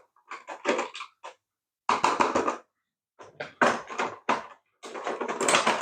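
Hard plastic parts of a toy RC car being handled and worked loose, giving irregular scraping and clattering in four bursts.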